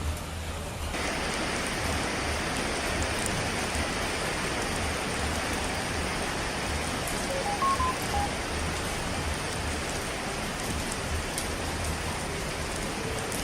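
Steady heavy rain, a dense even hiss that grows brighter about a second in. A few short, higher notes sound briefly just past the middle.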